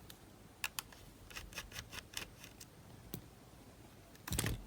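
Faint, scattered small clicks of a screwdriver and screws being worked on the plastic case of a Panasonic RQ-S60 cassette player, with a louder knock and handling noise near the end.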